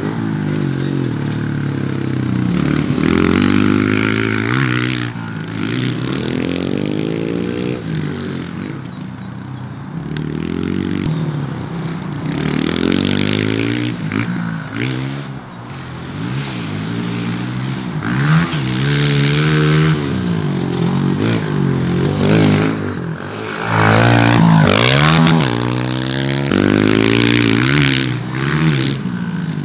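Honda CRF125 pit bike's single-cylinder four-stroke engine being ridden hard, revving up and down over and over as it is opened up and backed off.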